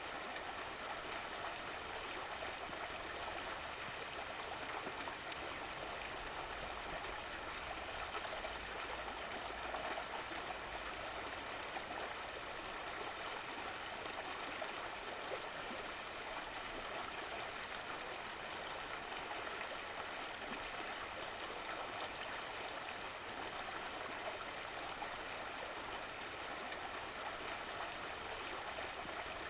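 Steady running water of a stream, an even flowing and trickling.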